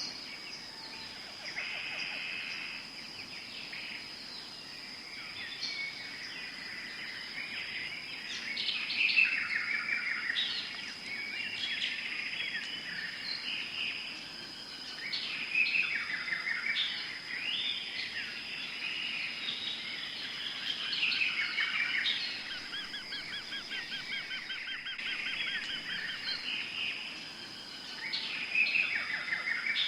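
Tropical forest ambience: many birds calling and chirping over one another, with a fast trill about two thirds of the way in, over a steady high-pitched insect drone.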